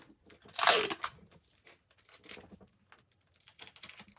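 A short tearing rip of plastic basket wrap about half a second in, followed by faint crinkling and handling noises.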